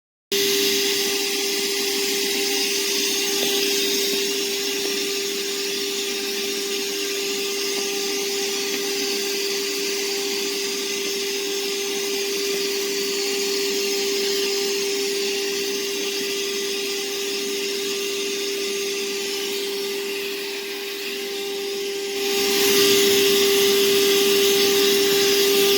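DEWALT 20V MAX wet/dry shop vacuum (DCV581H) motor running: a steady whine with a rushing hiss of air. It cuts in abruptly and gets louder and hissier near the end.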